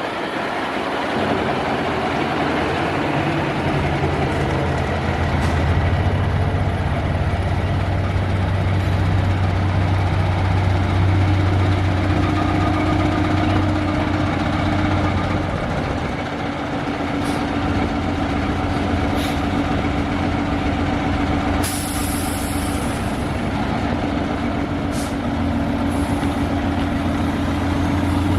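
Heavy truck diesel engine running steadily, its low note growing louder and easing off. About three-quarters of the way through comes a short hiss of air from the air brakes, with a few sharp clicks around it.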